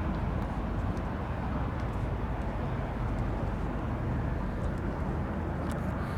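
Steady low rumble of car engines running, with a few faint ticks.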